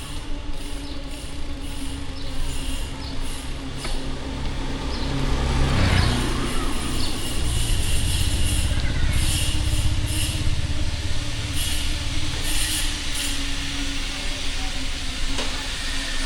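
City street traffic: motor vehicles running past with a steady hum and low rumble, the rumble growing louder about five seconds in.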